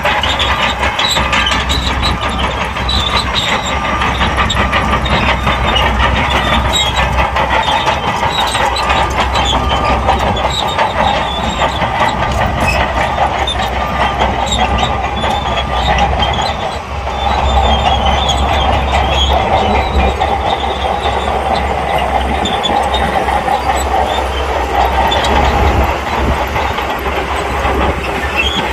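SHANTUI crawler bulldozer running under load, its diesel engine droning steadily beneath the continuous clanking and rattling of its steel tracks. The sound dips briefly about two-thirds of the way through.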